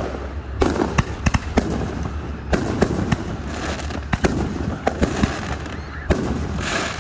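A fireworks display going off: a string of sharp bangs at irregular intervals, roughly one or two a second, with crackling between them over a steady low hum.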